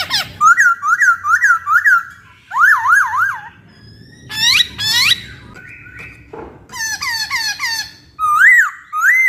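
Poksay (laughingthrush) singing a varied whistled song: short rising-and-falling notes repeated in groups of three or four, mixed with higher squeaky chirps, with brief pauses between phrases.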